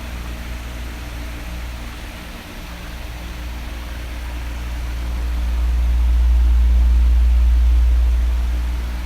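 Electric fan running steadily, a broad airy hiss with a low rumble that swells to its loudest about six seconds in and eases off near the end.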